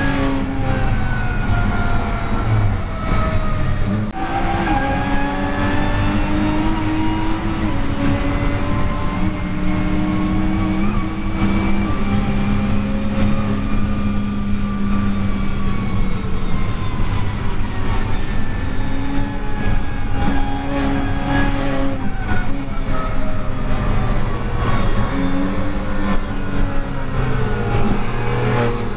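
BMW M2 Competition's twin-turbo straight-six engine running hard around a race track, its pitch climbing and falling as the car speeds up and slows. Several sudden jumps in pitch mark gear changes.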